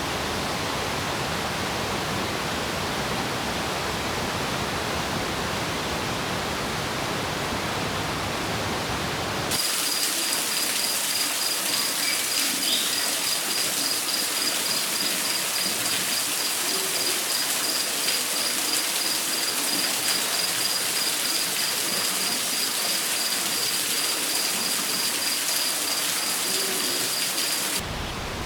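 Rainforest ambience: a steady rushing noise like rain or falling water. About ten seconds in it cuts abruptly to a brighter, hissier ambience with a steady high pulsing tone and a few faint chirps, and changes again near the end.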